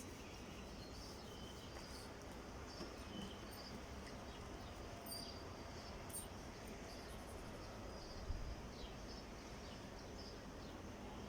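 Faint, scattered high bird chirps over a low, steady background rumble, with one dull thump about eight seconds in.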